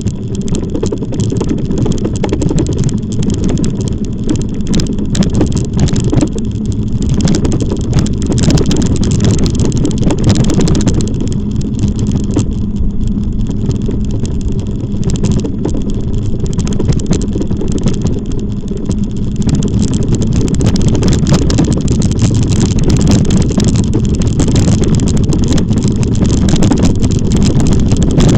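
Steady rumbling wind and road noise on the microphone of a moving e-bike, with scattered clicks and rattles.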